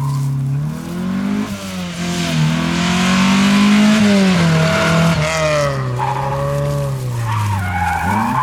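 Rally car engine at hard throttle going past, its revs rising and falling through gear changes and dropping low near the end before picking up sharply. A loud hiss of tyre noise, typical of a car sliding through a corner, runs over the middle of the pass, where it is loudest.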